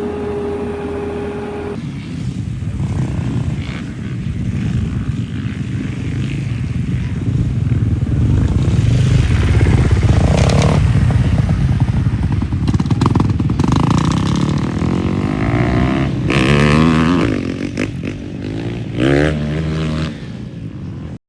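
Dirt bike engine running under way with a heavy rumble, revving up and down several times near the end.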